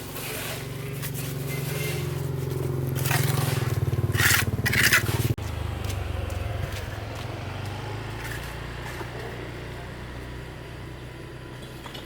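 A motor running steadily with a low hum, with a few loud scrapes about three to five seconds in. Near the middle the hum breaks off abruptly and carries on lower, slowly fading.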